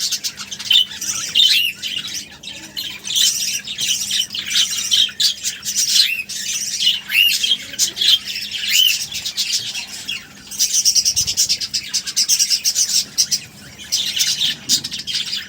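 Budgerigars chirping and squawking in a constant stream of short, high calls, many of them quick rising-and-falling chirps.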